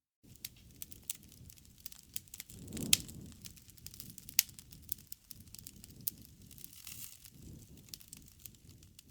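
Campfire crackling, with many small sharp pops over a low flame rumble and two louder pops in the first half.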